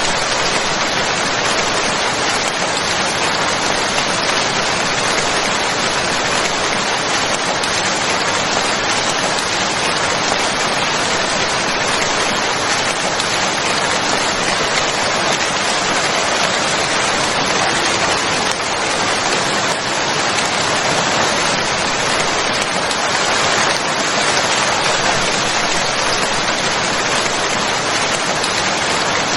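Steady, heavy rain falling, a dense even hiss of raindrops without breaks.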